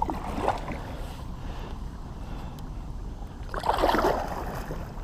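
Kayak paddle strokes: the blade splashes into the water twice, briefly about half a second in and louder around four seconds in. A steady low rumble runs underneath.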